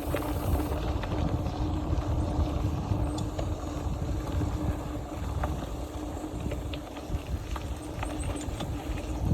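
Mountain bike riding a trail: wind buffeting the microphone over a low rumble from the tyres, with scattered small clicks and rattles and a steady low hum.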